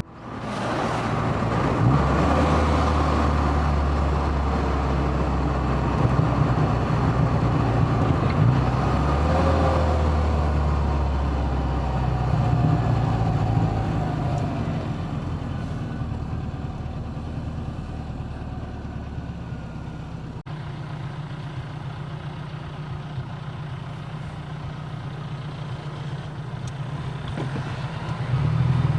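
Car engine and road noise while driving: a steady low engine drone, with its pitch rising and falling a few times in the first half.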